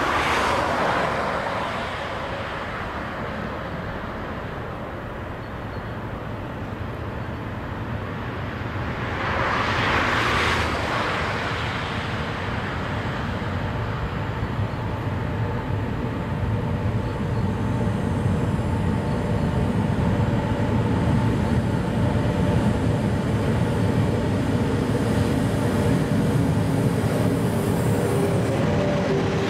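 Electric freight locomotive approaching slowly with a train of hopper wagons: a steady rumble, with a hum that grows louder as it nears and is at its strongest when it reaches the microphone near the end. A brief rush of noise rises and fades about ten seconds in.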